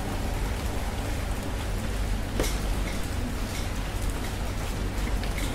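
Rain falling steadily: an even hiss with scattered drop impacts, one sharper than the rest about two and a half seconds in.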